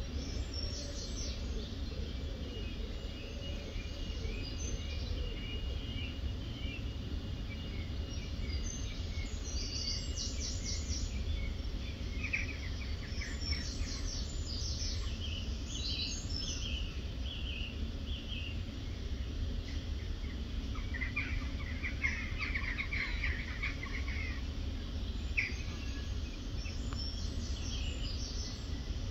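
Small birds chirping and singing in short scattered phrases, over a steady low outdoor rumble.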